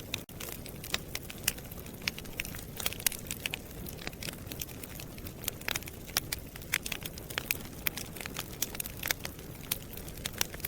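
Wood fire burning in a fireplace: a steady low rush of flame under irregular sharp crackles and pops from the burning wood.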